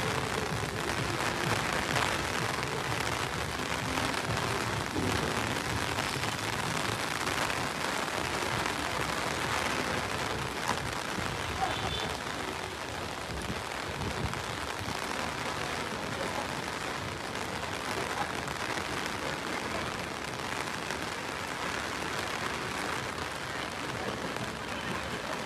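Heavy rain falling steadily on wet stone paving, an even hiss of downpour.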